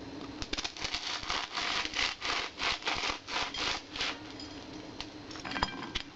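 Rhythmic back-and-forth rasping strokes, about three a second, that stop after about four seconds, followed by a few light clicks.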